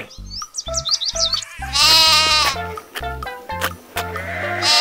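Sheep bleating over background music with a steady beat: one long, wavering bleat about two seconds in and another starting near the end.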